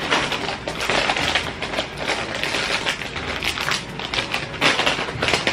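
Plastic snack packets crinkling and rustling as they are handled, a dense irregular crackle.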